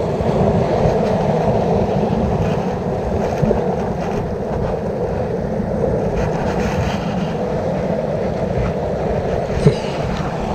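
Steady rushing of wind and sea surf at a rocky shoreline, heavy in the low end, with a faint tap about ten seconds in.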